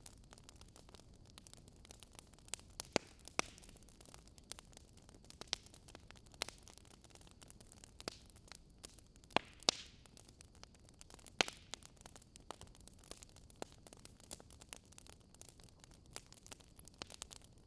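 Crackling campfire or wood fire: irregular sharp pops and snaps of varying loudness over a faint steady hiss.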